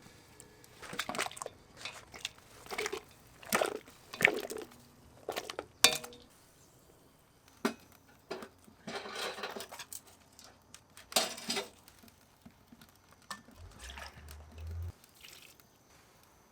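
Scattered clinks and knocks of dishes and kitchen utensils being handled, with some splashing of liquid and a brief low hum near the end.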